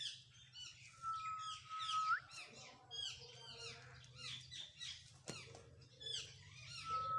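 Pet parrot chirping in a quick run of short, falling calls, with a long level whistle that flicks upward at its end about a second in and another starting near the end. A single sharp click comes about five seconds in.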